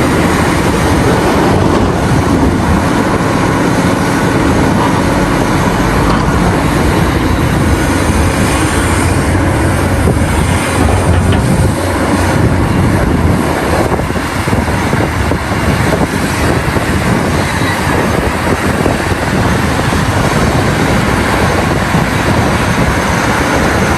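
Heavy mining machinery working: the diesel engines of a large hydraulic excavator and haul trucks run in a loud, steady rumble as overburden is loaded.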